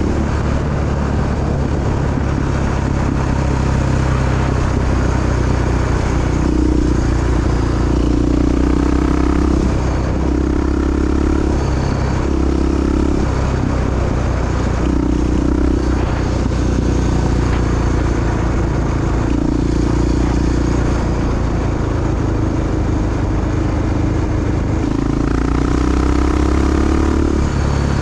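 Honda XR big-single dual sport motorcycle running under way, a steady low drone with the engine note swelling and easing off every few seconds as the throttle opens and closes, rising in pitch near the end.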